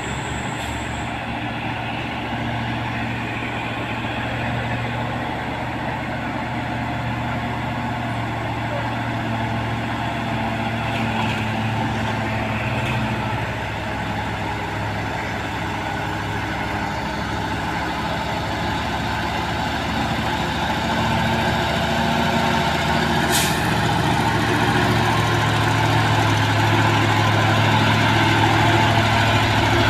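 Heavy diesel truck engines running as they labour up a steep climb, growing louder toward the end. About three-quarters of the way through there is one brief sharp hiss.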